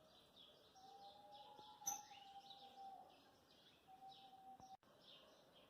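Faint birdsong: a bird repeating short, high chirps, about two to three a second, over quiet background.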